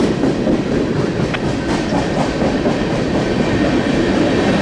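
Freight cars of a mixed freight train rolling past: a steady rumble of steel wheels on the rails with an occasional faint click.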